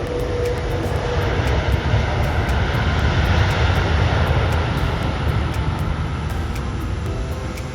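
Jet airliner's engines roaring loudly as it passes close by on or over the runway, the sound swelling to a peak about halfway through and then easing off.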